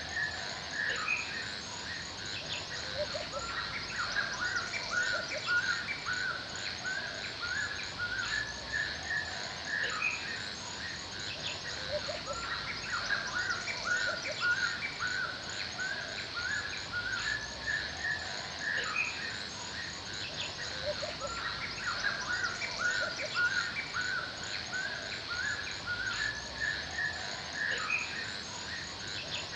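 Forest soundscape: many small birds chirping in quick, repeated notes, over a steady high insect chorus.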